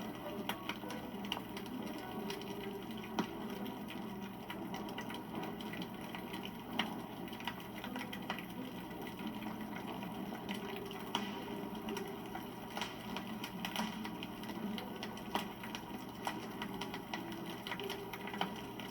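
Wood campfire crackling, with irregular sharp pops and snaps over a steady low rush of burning.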